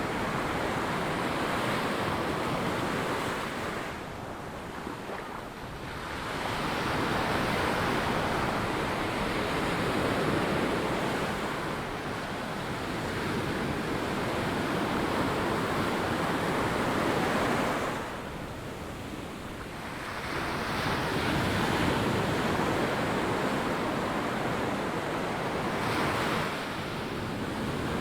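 Ocean surf breaking and washing up a sandy beach. It is a continuous wash that swells and eases, with brief quieter lulls between the surges.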